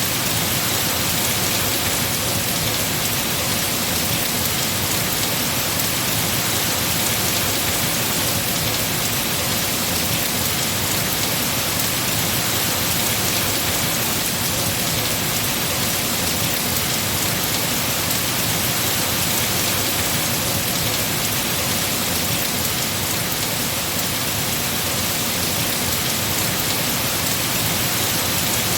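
Heavy rain falling steadily on trees and foliage, a dense even hiss with no breaks.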